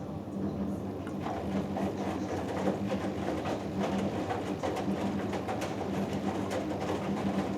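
Hoover Dynamic Next front-loading washing machine mid-wash on a hot cotton cycle: the motor hums steadily as the drum turns. Many short clicks and splashes run through the hum.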